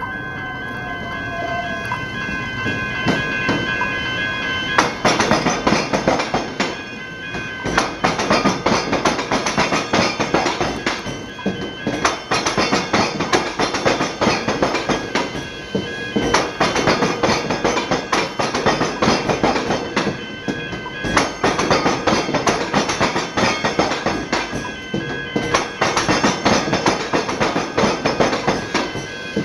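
Steel wheels of a rail vehicle clattering over the tram-and-rail diamond crossing. The clatter starts about five seconds in and dips every four to five seconds, over a steady high tone.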